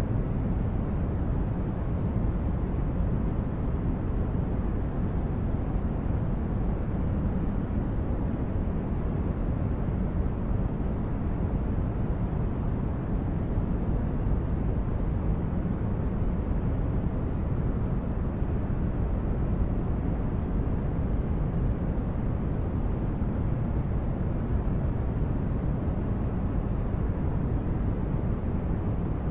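Synthetic sci-fi spaceship ambience: a steady, deep noise like brown noise, weighted to the low end, with no tones or separate events.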